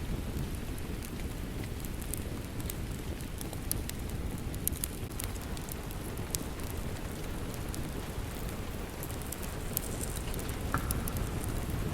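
Steady rain with a low rumble, mixed with the scattered sharp pops and crackles of a wood fire burning in a fireplace.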